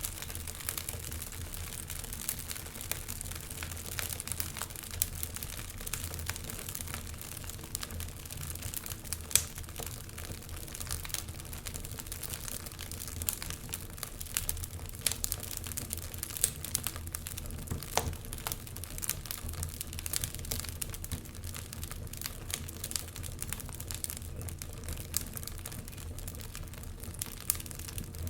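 Wood fire crackling in a fireplace: irregular sharp pops and snaps over a steady low rumble, with a louder pop about nine seconds in.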